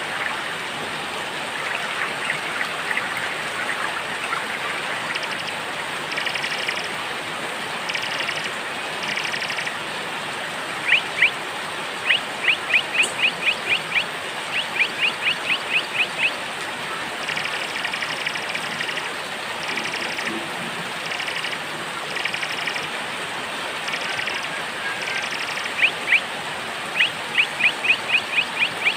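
Small songbirds chirping over steady rain: short repeated call phrases, and about halfway through and again near the end, quick runs of sharp chirps, several a second.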